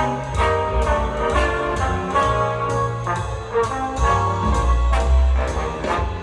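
A jazz track with brass lines over bass and a steady drum beat, played through a small bookshelf loudspeaker and picked up by a microphone in the room.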